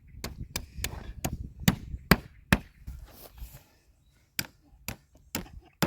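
Hammer driving a ground stake in with a series of sharp blows: about seven in quick succession, a pause of under two seconds, then four more.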